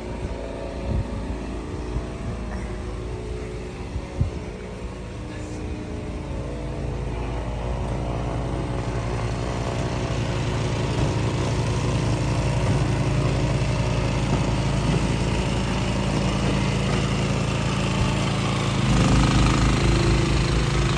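Car engine running, heard from inside the car. It is a steady drone that comes in suddenly, slowly grows louder, and turns deeper and heavier near the end.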